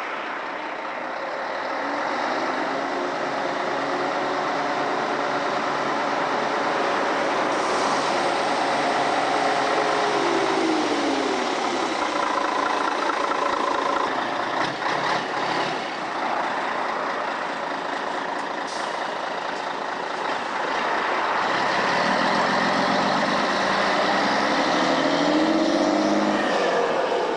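Scania 113M truck's straight-six diesel engine running through an open, unsilenced exhaust pipe, loud throughout. Its pitch swells and falls away twice, about ten seconds in and again near the end.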